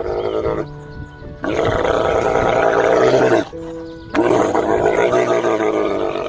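Camel bellowing: two long, loud, rough roaring calls, each about two seconds, over steady background music.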